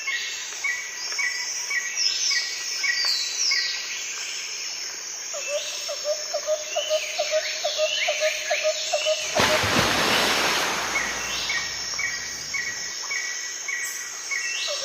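Several birds singing and chirping: short notes repeated about twice a second, quick falling whistles, and a run of lower repeated chirps. About nine seconds in, a loud rushing noise swells over them for a second or two.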